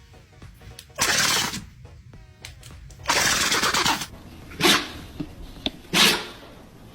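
A dog sneezing four times, sudden bursts of breath one to two seconds apart; the first two are longer and the last two short and sharp.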